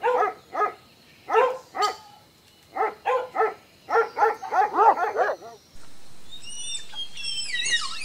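Weimaraner giving short, high barks and yips in quick runs of two to five. After a break, a tapir lets out a series of high-pitched, falling squeaky whistles near the end.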